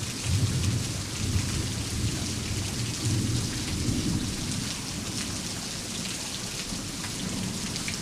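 Steady heavy rain hissing, with a low rolling thunder rumble that fades out a little past halfway.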